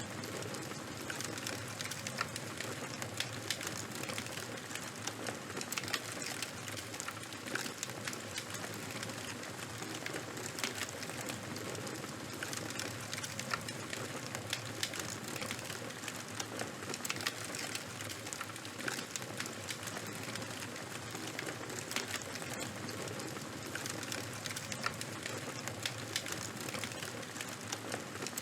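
Fire crackling steadily, with a constant hiss of burning and dense, irregular sharp pops and snaps throughout.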